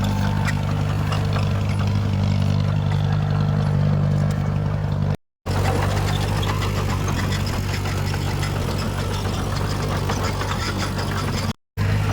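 Heavy diesel engine of earthmoving machinery running steadily with a low, even drone. The sound cuts out to silence for a moment twice, about five seconds in and near the end.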